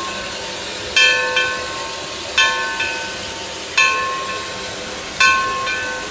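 Steam locomotive's bell ringing, struck about every second and a half with a ring after each stroke, over a steady hiss of steam.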